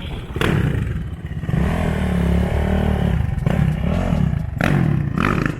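Dirt bike engine revving, its pitch rising and falling over several throttle openings, with the longest surge in the middle.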